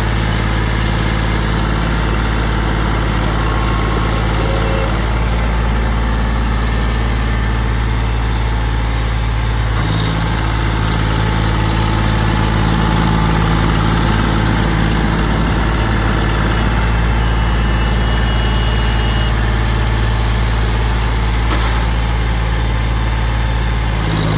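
John Deere four-wheel-drive tractor's diesel engine running steadily at an even speed, with a slight change in its note about ten seconds in.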